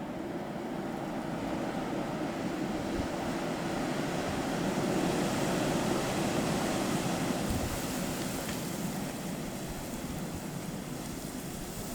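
Blizzard wind blowing as a steady rush that builds to a peak about halfway through and then eases off.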